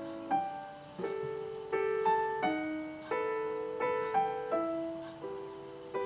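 Background piano music: a slow melody of single struck notes and chords, a new one about every half second, each ringing and fading away.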